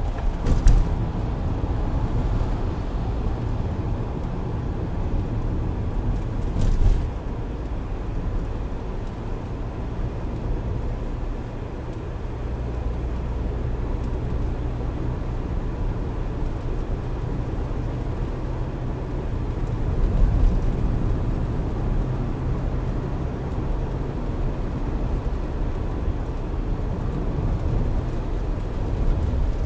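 Steady low road and engine rumble of a moving car, picked up by its dashcam inside the cabin, with two short knocks, one near the start and one about seven seconds in.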